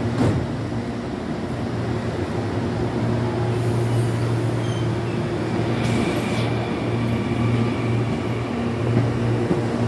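Electric commuter train at the platform, doors shut, starting to pull away: a steady low motor hum, with a sharp knock just after the start and short hisses about four and six seconds in.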